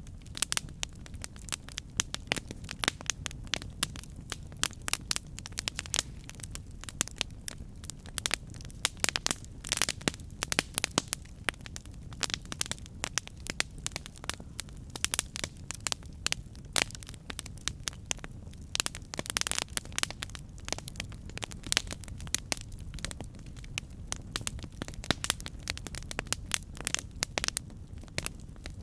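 Wood fire crackling and popping: many irregular sharp snaps of varying loudness over a steady low rumble of burning.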